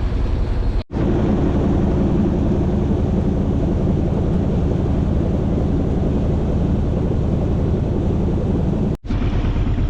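A boat's engine running steadily, a low even drone. It drops out for a split second about a second in and again near the end.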